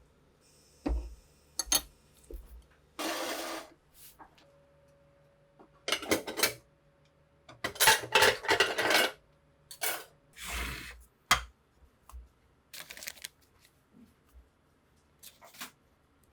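Hands working on small metal gun parts: a string of separate clicks and knocks with several short scraping or rubbing strokes, the longest about a second and a half, about eight seconds in.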